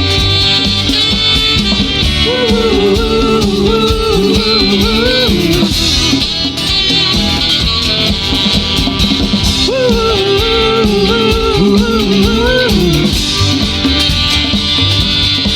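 A rock band playing live: an instrumental passage in which a lead melody, most likely guitar, plays a phrase twice over bass and drums.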